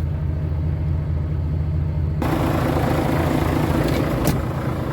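Volvo FH16 truck's diesel engine idling with a steady low hum. About two seconds in, a broad hiss comes in suddenly and stays, with a single click near the end.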